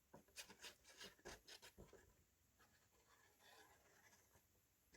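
Near silence with faint, scattered rubbing and light taps of paper being handled at a craft desk, busiest in the first two seconds.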